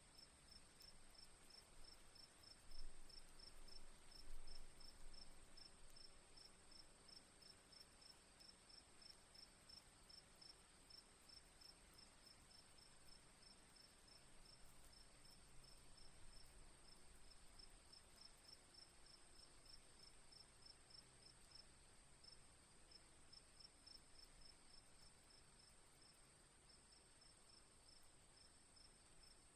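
Faint crickets chirping: an even, rapid train of short high chirps over a steady high-pitched trill. Two brief, soft low thumps come about three and four and a half seconds in.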